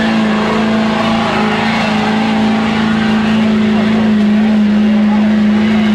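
Diesel truck engine running hard at steady, high revs, working under load during a truck pull; its pitch holds almost constant throughout.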